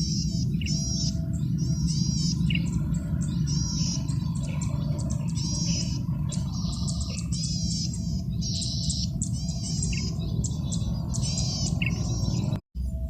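Male golden-headed cisticola singing: short buzzy high phrases repeated about once a second, over a steady low hum. The sound cuts out briefly near the end.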